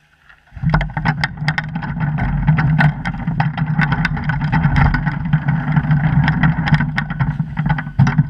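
Snowblower engine running loud and steady, coming in suddenly about half a second in, with many sharp clicks and rattles over it; the level drops off near the end.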